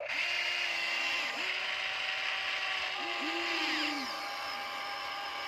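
Electric gear motors of a Huina 1593 RC excavator whirring in short runs. Each whine rises in pitch as it starts and drops as it stops, with several runs overlapping as the machine's functions are worked.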